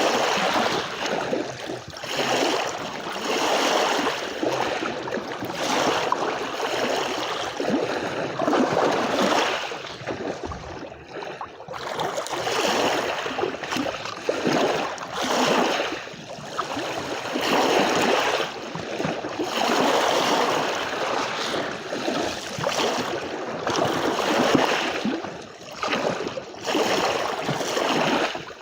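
Small sea waves washing and splashing onto a shore, the sound swelling and falling every second or two, with a short lull about eleven seconds in.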